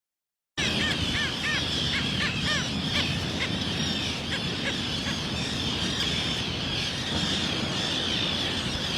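Small birds chirping. A quick series of short arched chirps comes in the first few seconds, over constant higher twittering and a low background rumble. The sound starts suddenly about half a second in.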